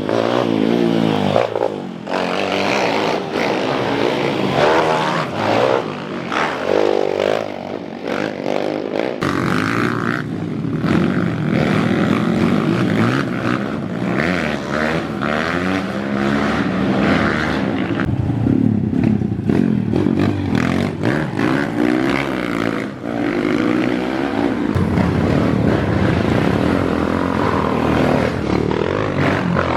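Several motocross dirt-bike engines revving hard and overlapping, their pitch repeatedly rising and falling as the riders work the throttle on a climb.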